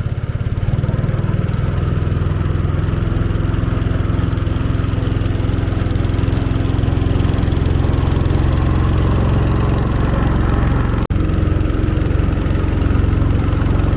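A small engine running steadily, with a brief dropout about eleven seconds in.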